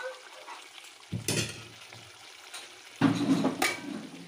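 Chicken sizzling as it fries in its own juices, without added water, in a steel kadai while a metal spoon stirs and scrapes it. The stirring is louder twice, about a second in and again about three seconds in.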